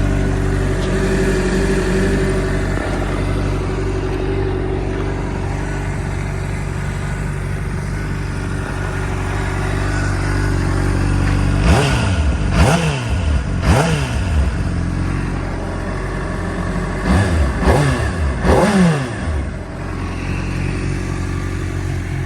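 2016 Honda CBR600RR's inline-four engine idling steadily. About halfway through it is blipped three times in quick succession, each rev rising sharply and dropping back. A few seconds later come three more blips, and then it settles back to idle.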